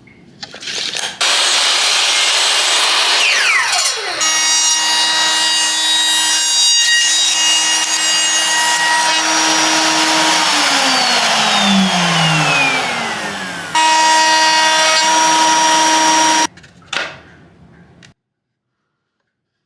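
Electric power tool motor running at high speed. About ten seconds in its pitch falls as it winds down, then it runs again and stops abruptly near the end with a brief falling whine.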